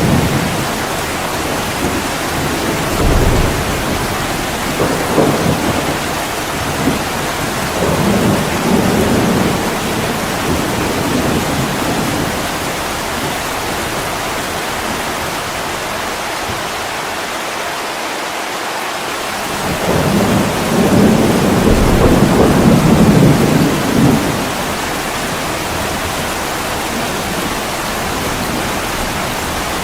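Heavy rain pouring steadily on a window, with low rolls of thunder rumbling through. The thunder comes several times in the first third and is loudest at about twenty seconds in.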